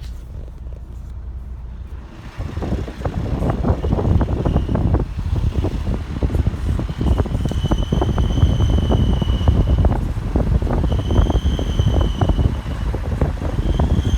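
Volkswagen Tiguan 2.0 TDI under way uphill, a high-pitched squeal coming and going four times, the longest for about three seconds, over heavy rumbling road and wind noise that grows louder about two seconds in. The owner has been told the squeal is not the turbo, and its cause is unknown.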